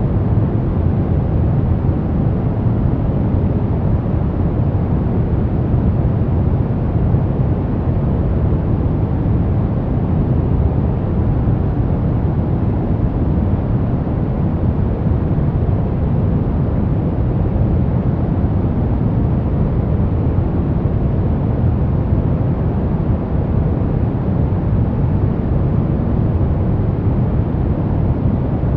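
Continuous synthetic white noise for baby sleep: an even, unchanging rush weighted toward the low end, deep rather than hissy, with no high treble.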